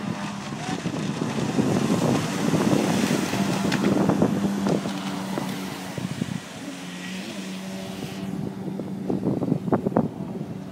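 Jet ski engine running with a steady note, with wind buffeting the microphone; the engine eases slightly about six seconds in.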